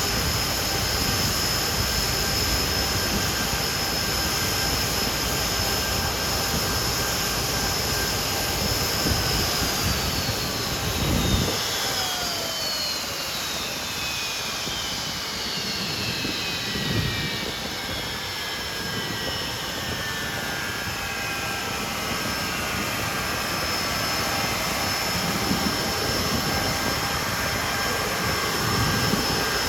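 Nimrod jet's turbofan engines running with a steady high whine. About ten seconds in, several whine tones slide slowly down in pitch as an engine winds down, while a steady whine carries on under a heavy low rumble.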